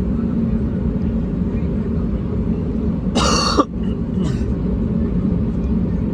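Steady low drone of an Airbus A320neo's cabin in flight. About three seconds in, a short loud cough cuts through it, with a fainter one soon after.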